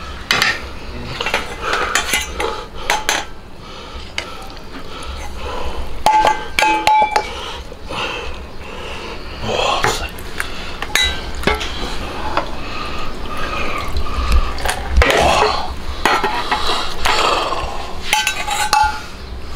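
Metal utensils clinking and scraping against an aluminium pressure cooker and a stainless-steel tray as braised hocks are lifted out and ladled with broth: a run of irregular clinks and knocks, with a couple of ringing metal clinks about six to seven seconds in.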